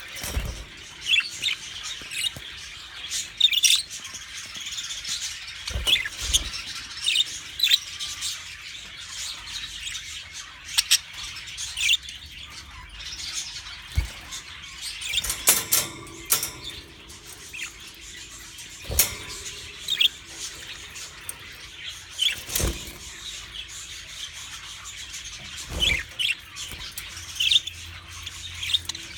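Pet budgerigars chattering: a steady stream of short chirps, squeaks and warbles from several birds, broken by a few dull knocks.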